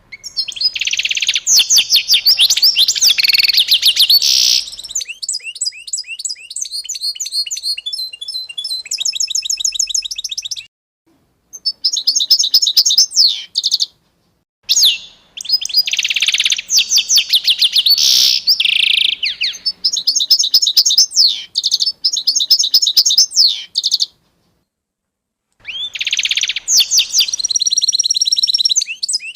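Songbirds singing in fast runs of chirps and trills. The song stops dead three times, in short silent gaps where the recording cuts.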